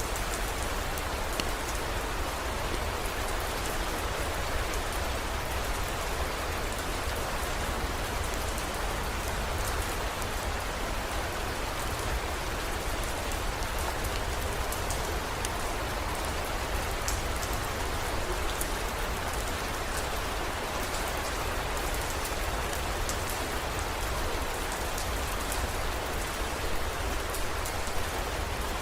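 Steady heavy rain: an even hiss with many fine drop ticks, over a steady low rumble.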